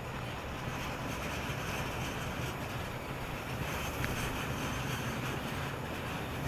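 Steady rumble of a freight train of tank wagons rolling past, mixed with strong wind buffeting the microphone.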